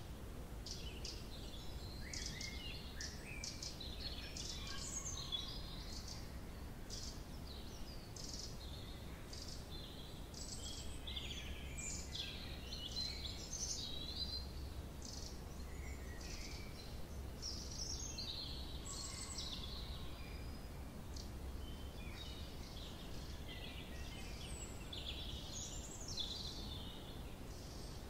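Small birds singing and calling in woodland, a run of short chirps and quick trills that keeps on with brief gaps, over a steady faint low rumble.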